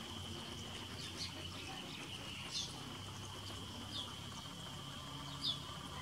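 Short, high bird chirps come about every second and a half, the loudest near the end, over a steady high-pitched insect drone.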